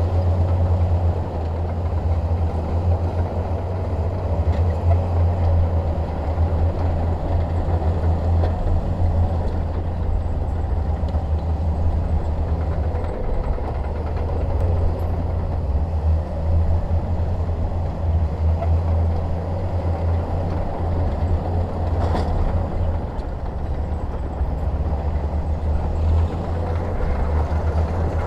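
Small Komatsu D21P bulldozer's diesel engine running steadily under load as it works. It makes a continuous low drone, with one sharp knock about three-quarters of the way through.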